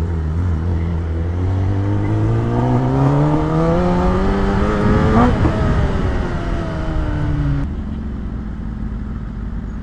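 Superbike engine pulling hard, its pitch rising steadily for about five seconds, then falling as the throttle is closed, with a sudden drop in the sound shortly before the end.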